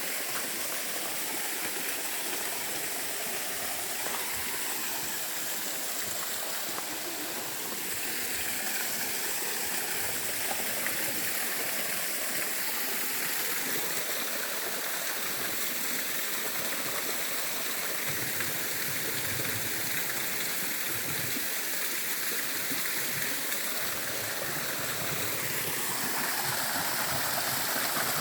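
Small waterfall and its stream: steady rushing and splashing water, slightly louder near the end.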